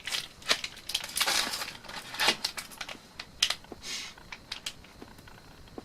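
Bubble wrap stapled over a window screen crinkling and snapping as the wind flaps it, in irregular crackling bursts that thin out near the end.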